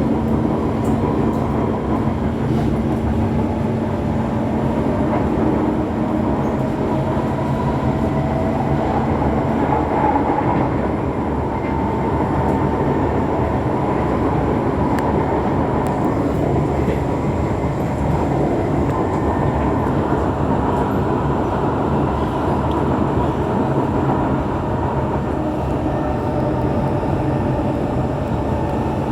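SMRT C151 metro train running along the track, heard from inside the car: a continuous rumble of wheels on rail with a steady hum that stops about ten seconds in.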